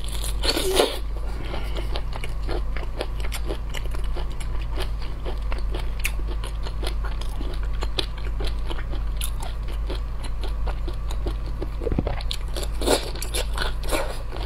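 Close-miked eating of shrimp: biting and chewing with many small crunches and wet mouth clicks. There is a louder cluster of bites about half a second in and another about a second before the end.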